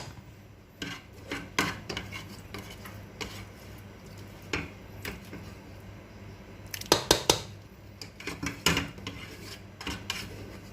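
A spoon clinking and scraping against a cooking pot in short irregular bursts as sauce is spooned onto layered rice, loudest about seven seconds in.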